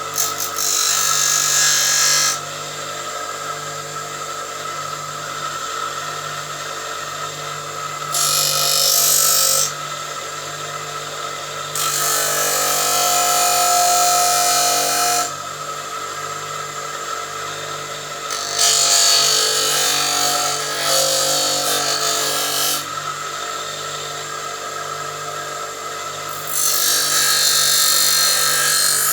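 Bench grinder running steadily with a constant hum, with a workpiece pressed against the wheel five times for one to four seconds each, giving a loud rasping grind.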